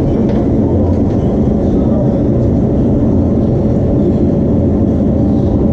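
A loud, steady mechanical rumble, like a running engine or machine.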